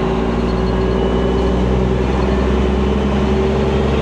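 Semi truck's diesel engine running steadily at a low, even speed.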